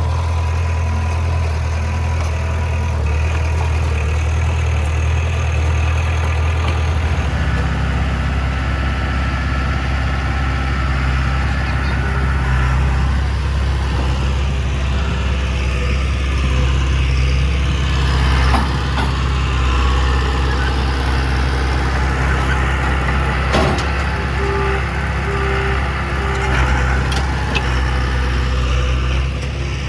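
Heavy diesel engine of earthmoving machinery running steadily, its low note changing about seven seconds in, with a few sharp knocks in the second half.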